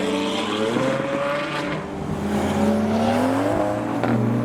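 Supercar engine accelerating away: its pitch climbs about a second in and climbs again from about two seconds, then drops off near the end.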